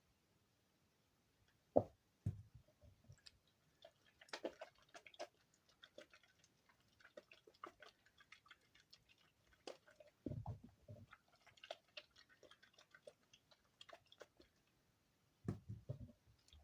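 Hands kneading and squeezing damp soap shavings together, giving faint irregular crunching and crackling, with a few dull thumps as the mass is pressed.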